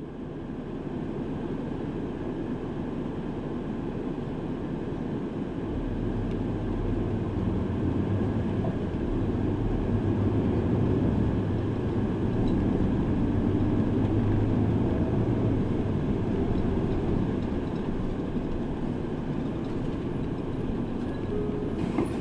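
Interior of a city bus under way: engine drone and road rumble, with a deep steady engine note coming in about six seconds in and the noise growing louder as the engine pulls harder, then easing a little near the end.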